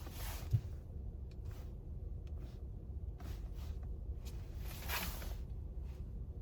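Low steady rumble of a car idling, heard inside the cabin, with a few short breaths, the loudest about five seconds in.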